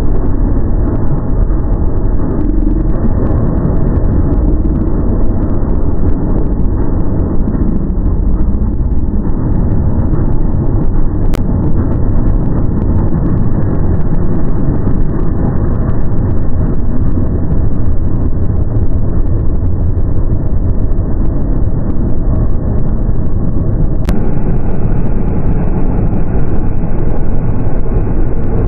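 Motor vehicle engine running steadily, a loud, even low rumble.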